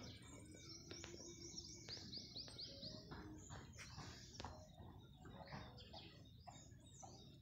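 Faint bird chirping: a quick run of repeated high chirps for about two seconds near the start, then a few scattered calls.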